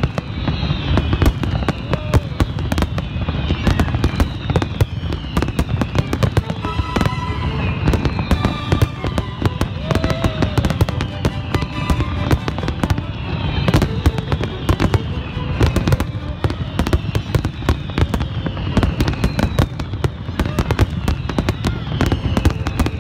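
Large aerial fireworks display: a continuous barrage of shell bursts, bangs and crackling, with repeated short falling whistles throughout.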